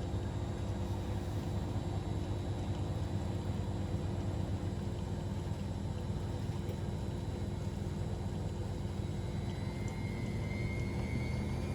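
Washing machine running, a steady low motor hum with a faint high whine coming in near the end.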